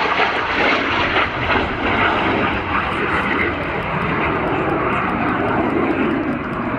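Aermacchi MB-339 jet trainer's single turbojet running loud as the solo aircraft pulls up from a tight, high-g turn over the field: a steady rushing jet noise that eases a little near the end.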